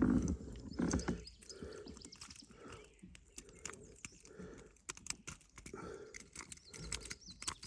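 Irregular light clicks, taps and knocks of fishing gear being handled in a kayak while a landed bass is unhooked.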